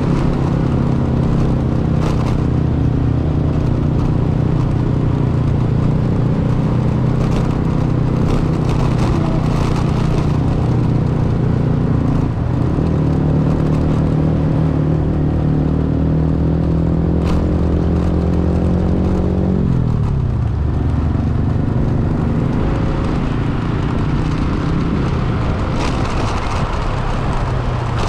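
Vehicle engine running steadily on the move. Its pitch dips briefly about twelve seconds in and slides down sharply around twenty seconds in.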